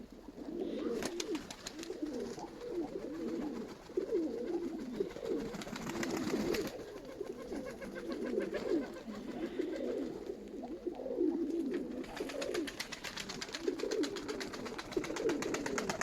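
Several Nikolaev pigeons cooing together in overlapping low coos, with stretches of rapid light clicking at times.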